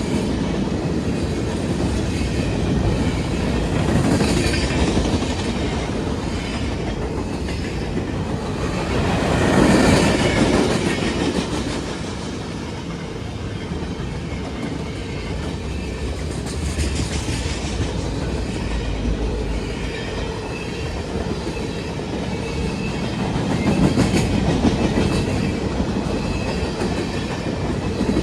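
Railroad cars rolling past, their steel wheels clacking over the rail joints, with a steady rumble that swells louder a few times.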